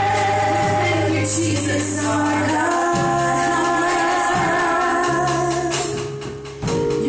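Live church worship music: voices singing long held notes over a steady bass and instrumental backing, with a brief dip near the end before a new chord comes in.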